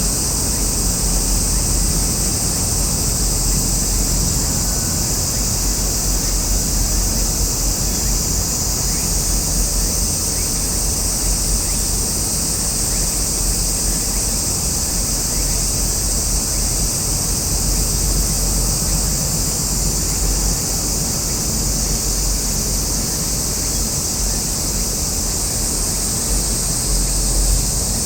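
Steady outdoor noise: wind rumbling on the microphone, swelling now and then, under a constant high-pitched hiss.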